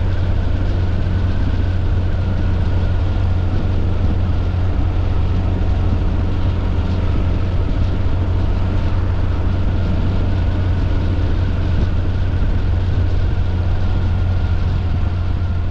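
An engine running steadily at constant speed: an even, low hum that holds one pitch throughout.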